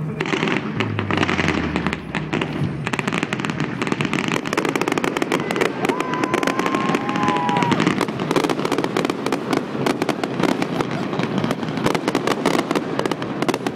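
Fireworks going off in a dense, continuous barrage of rapid crackling and popping, with a short whistling tone about six seconds in.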